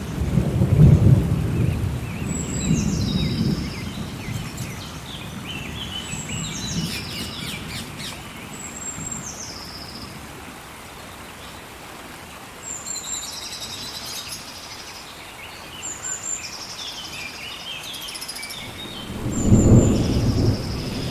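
Steady rain with thunder rumbling low in the first few seconds and again near the end. Between the rumbles, birds give repeated short high calls that step down in pitch.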